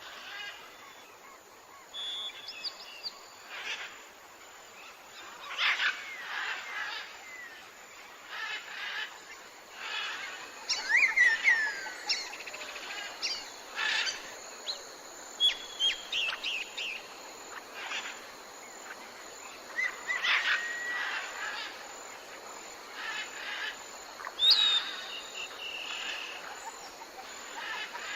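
Several birds singing and calling in short chirps and whistled notes, some sliding down in pitch, scattered throughout over a faint steady outdoor background.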